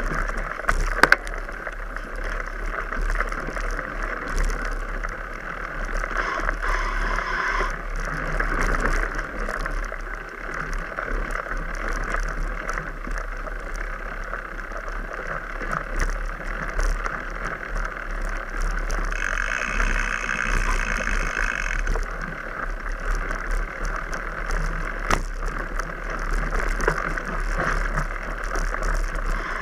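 Mountain bike riding over rough ground: steady tyre and wind noise with scattered clicks and rattles.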